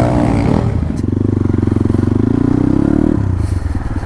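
Dirt bike engine running under throttle; about a second in it revs up, its pitch climbing steadily for about two seconds, then drops back suddenly.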